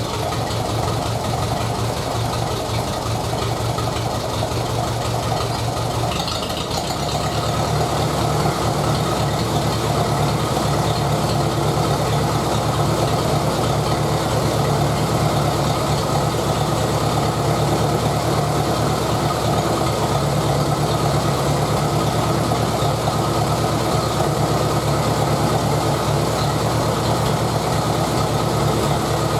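1953 Ferguson TED-20 tractor's four-cylinder engine idling, just switched over to run on petrol. About six seconds in its speed picks up slightly and it runs on a little faster and louder. The engine is worn: the owner says the liners need replacing and it is burning oil.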